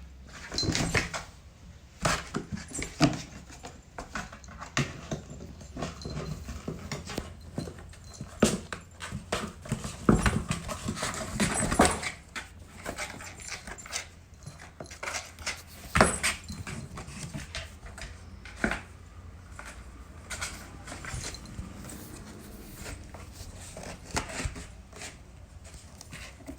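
A pet animal making sounds amid many irregular clicks, taps and scuffles, busiest about ten to twelve seconds in.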